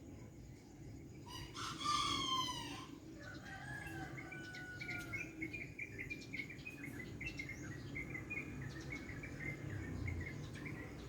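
A rooster crows once, a bit over a second in, the call lasting about a second and a half and dropping in pitch at the end. Small birds chirp after it.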